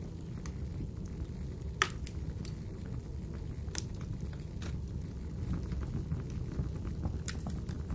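Wood fire crackling, with a few sharp pops, the loudest about two seconds in, over a steady low rumble mixed with rainfall.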